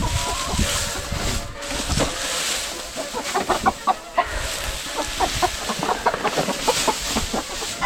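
Hens clucking, a quick run of short clucks starting about three seconds in, over rustling noise.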